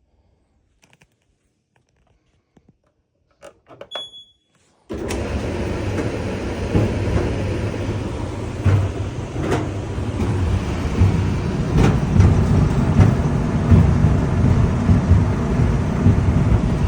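Clothes dryer being started: a few small clicks and a short electronic beep, then about five seconds in the drum starts up at once and runs with a loud, steady, low rumble and occasional knocks.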